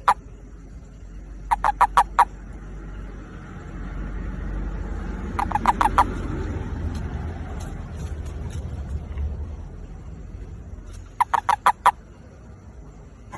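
A calling male toad gives its mating call: short bursts of four to six rapid croaks, repeated three times several seconds apart. Under the calls runs a low rumble that swells in the middle and fades again.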